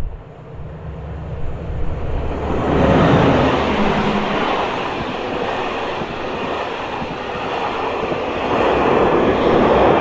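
Train passing close by: a low rumble as it approaches, then a loud, steady rush of wheels on the rails that builds about two and a half seconds in and keeps up as the cars go by.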